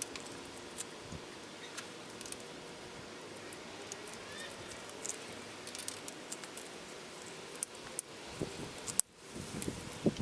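Scattered small clicks and taps of tools and bicycle fork parts being handled over a steady background hiss, with one sharper click about nine seconds in.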